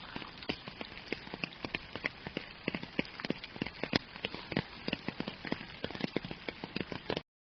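Rain falling, with many separate drops pattering irregularly on a surface over a steady hiss; it cuts off suddenly near the end.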